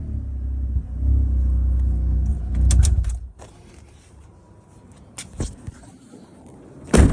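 Mazda RX-8's twin-rotor Renesis rotary engine running at idle with a brief rise in revs, then stopping about three seconds in. A couple of light clicks follow, and a loud thump near the end.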